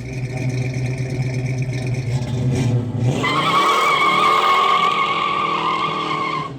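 A car engine runs steadily, then revs up about three seconds in while the tires squeal.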